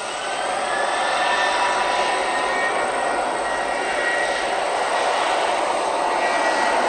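Jet airliner's engines passing close, a loud steady rush with a faint whining tone, growing louder in the first second and then holding.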